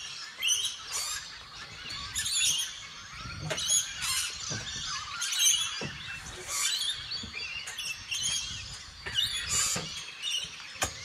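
Birds chirping and calling, many short calls in quick succession, with a few sharp knocks among them.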